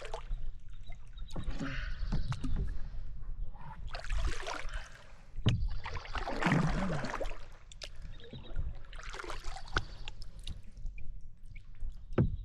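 Repeated bursts of splashing and sloshing water, about a second each, as a hand grabs at a struggling, spawned-out silver salmon beside a kayak, with scattered sharp knocks.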